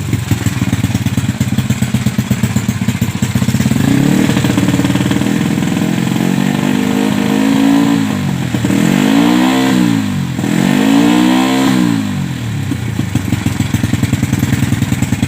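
Honda Grand motorcycle's 130cc four-stroke single, breathing through a Creampie aftermarket exhaust, idling with a pulsing beat. About halfway through it is revved twice, each rev rising and falling back, then it settles to idle again.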